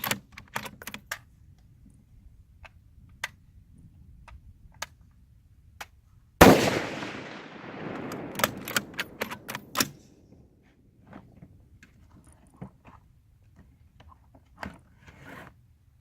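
A single loud gunshot about six seconds in, followed by a rolling echo that dies away over a few seconds. Scattered sharp clicks and knocks before and after it.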